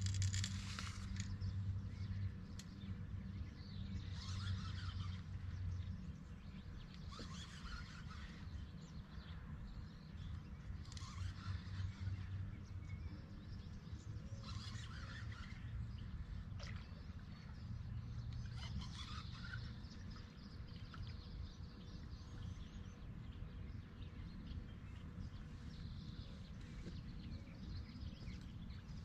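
Birds chirping in short repeated phrases every few seconds over a steady low rumble.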